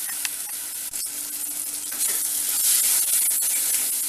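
Spiced onion-tomato masala sizzling in oil in a clay pot and stirred with a wooden spatula, with a few light clicks from the stirring. The sizzle grows louder about two seconds in. This is the masala frying on low heat until the raw smell of the chilli powder cooks off.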